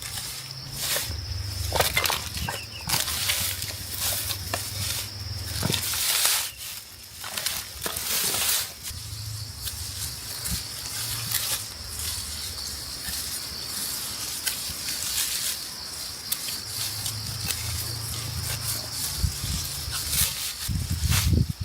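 Dry rice stalks being cut and handled by hand, with irregular crunching and rustling strokes. A steady high-pitched tone sits underneath.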